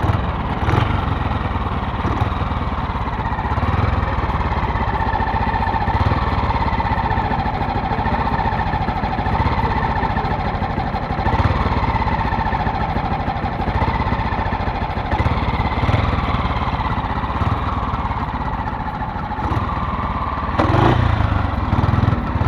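Classic motorcycle engine idling, with the throttle blipped briefly several times so the revs rise and fall.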